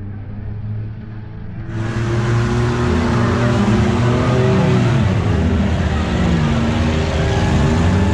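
Several autocross derby car engines running and revving, their pitches rising and falling as the cars accelerate and back off. The sound turns fuller and brighter about two seconds in.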